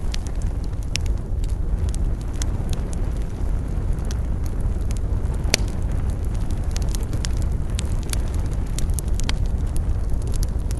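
Wood bonfire crackling, with irregular sharp pops over a steady low rumble; one louder pop about five and a half seconds in.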